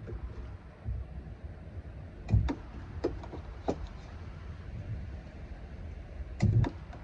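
Steady low rumble of wind on the microphone, with a series of sharp knocks and clinks. The loudest are a pair about two and a half seconds in and another pair near the end.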